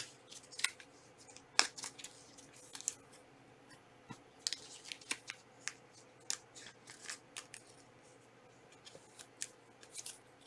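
Trading card packs and cards being handled: irregular short, crisp snips and crinkles of pack wrappers and card stock, with a brief lull in the second half.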